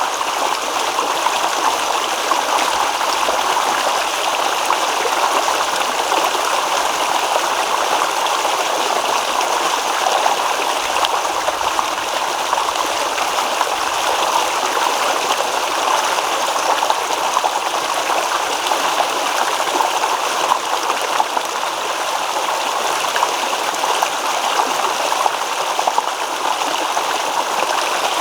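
Babbling stream: water running and rippling over stones in a steady, unbroken rush.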